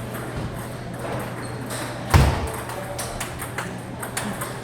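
Table tennis ball clicking sharply off bats and the table in quick succession, with one heavy thump about two seconds in, over a steady low hum.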